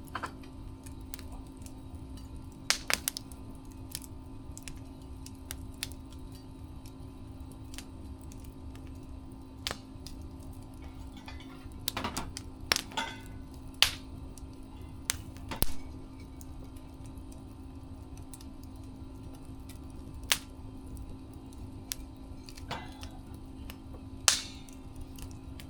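Wood fire crackling, with sharp, irregular pops and snaps scattered over a steady low hiss and hum.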